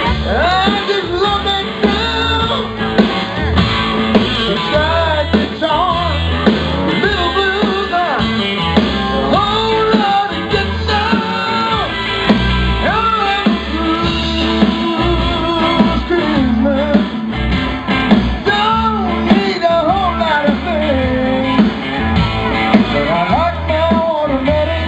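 Live band playing a bluesy rock-and-roll Christmas song: a bending lead melody over a steady bass line and drums, with no words sung.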